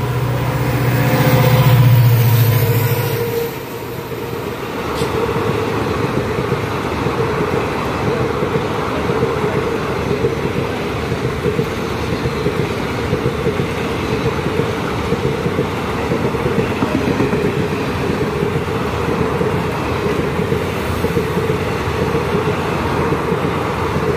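An express train passing close by on the next track. Its locomotive's low drone swells and fades over the first few seconds, then its coaches' wheels rumble and clatter steadily on the rails.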